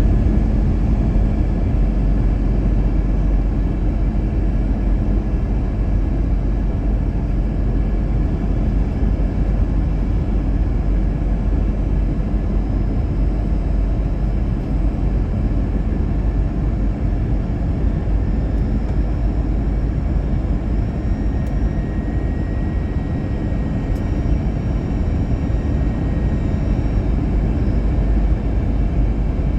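Steady jet engine and airflow rumble inside the cabin of an Airbus A321-200 in flight, even and unchanging, heaviest in the low end.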